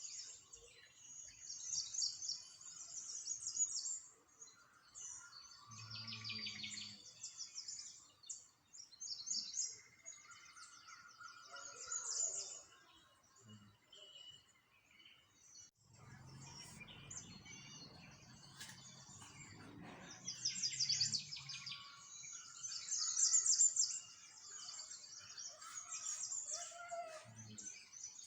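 Small songbirds chirping and twittering in quick, high, repeated trills, several calls overlapping. A low rumble comes in briefly about six seconds in and again for several seconds past the middle.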